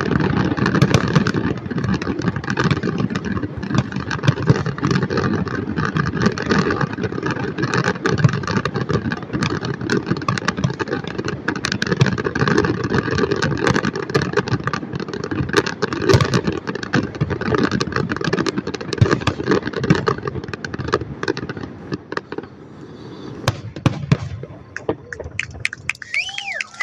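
Fireworks finale: a dense, continuous barrage of bangs and crackles that thins out and dies away about 22 seconds in.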